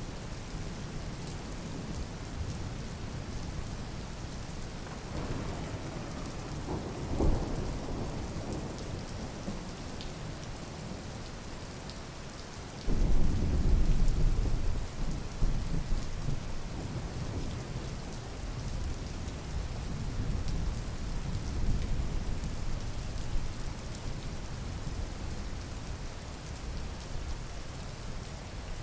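Steady rain falling during a thunderstorm. Thunder rumbles low around seven seconds in, then a sudden louder peal about thirteen seconds in rolls off over a few seconds, with more rumbling later.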